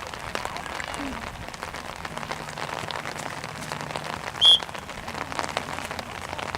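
One short, sharp referee's whistle blast about four and a half seconds in, over a steady patter of rain falling close to the microphone.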